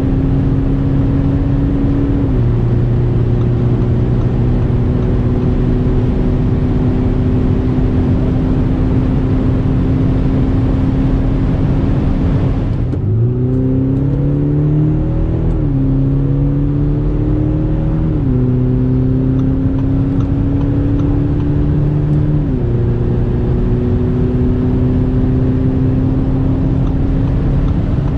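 Audi SQ5 3.0 TDI V6 diesel accelerating, over steady road and wind noise. Its engine note climbs slowly and drops back at each upshift. About halfway through, the note falls low and then climbs quickly through several gears in turn, dropping back every three or four seconds.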